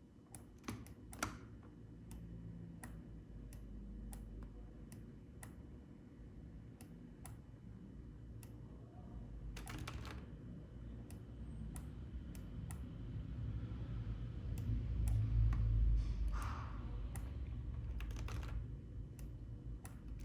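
Scattered, irregular clicks of a computer keyboard and mouse, over a low background rumble.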